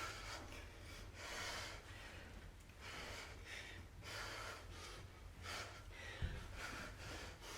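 A person breathing hard through the exertion of a kettlebell lunge and kick-through set, with short, irregular puffs of breath. A brief low thump about six seconds in.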